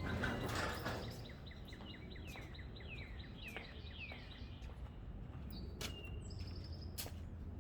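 A bird chirping: a run of short falling chirps, about two a second, then a few quick higher notes, over a steady low hum.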